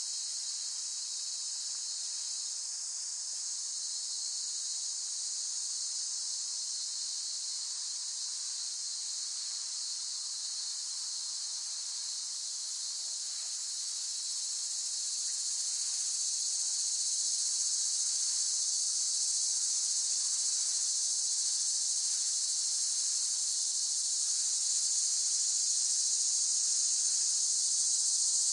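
A chorus of cicadas singing in one steady, continuous high-pitched buzz, swelling slightly louder from about halfway through.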